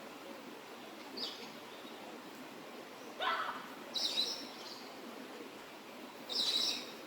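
Birds calling: a short high call about a second in, a harsher call about three seconds in, then two louder high calls near four and six and a half seconds, over a steady faint background.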